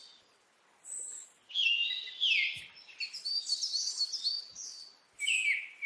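Birds singing in short phrases of quick chirps and sweeping whistled notes, with brief pauses between phrases.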